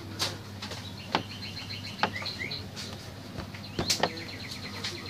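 Small bird chirping repeatedly, breaking into a fast trill of chirps in the second half, over a steady low hum. Several sharp clicks are the loudest sounds.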